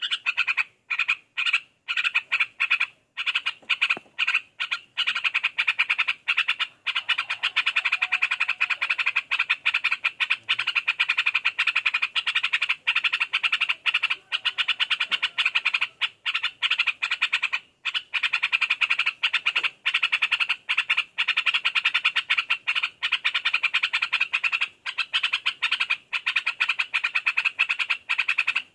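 A continuous rapid, rasping pulsed trill like frog croaking, carried on for many seconds with only brief pauses.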